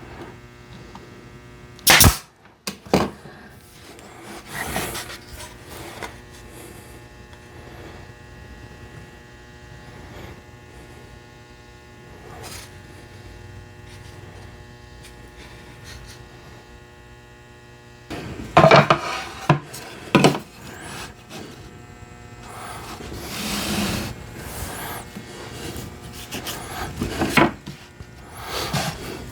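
Woodworking at a shop bench over a steady electrical hum: a sharp pneumatic nail-gun shot about two seconds in, then a few lighter knocks. Later come clusters of wooden knocks and scraping as cedar pieces are handled.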